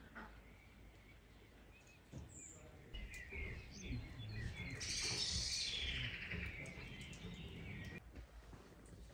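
Small birds chirping and singing outdoors, busiest about five seconds in, over a low background rumble; the birdsong breaks off near the end.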